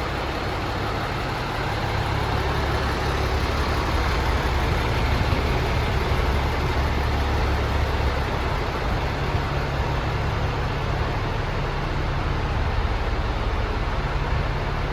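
MAN TGS 24.430 tractor unit's 430 hp Euro 6 diesel engine idling steadily, a low, even rumble.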